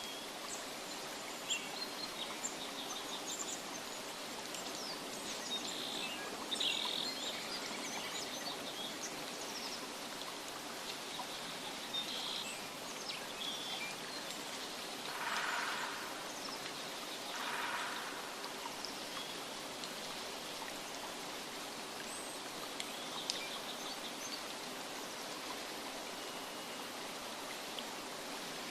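Nature ambience: a steady hiss of water with small bird chirps scattered through it, and two short, louder calls about halfway through.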